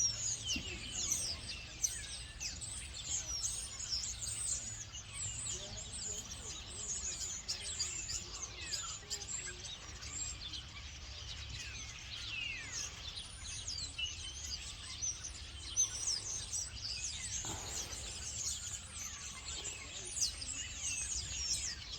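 A large flock of birds in the treetops singing their heads off: many short chirps and twitters overlapping into a dense, unbroken chatter, over a low steady hum.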